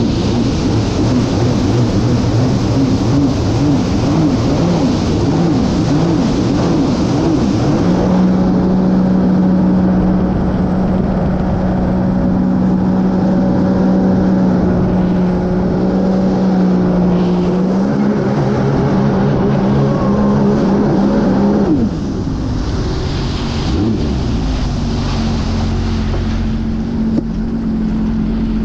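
Sea-Doo GTR 230 personal watercraft's supercharged three-cylinder Rotax engine running on the water, its pitch wavering at first, then holding steady at speed. About three-quarters of the way through it eases off and runs on a little quieter at a steady pitch.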